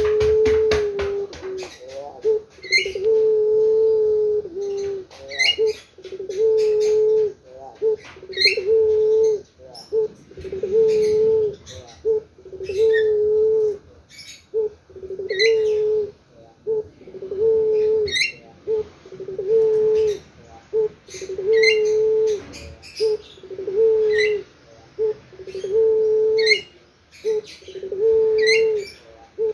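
Puter pelung dove, a domestic barbary dove variety, cooing over and over in a long, low, drawn-out coo about every two seconds. Short high chirps come between the coos, and there is a quick rattle of clicks at the very start.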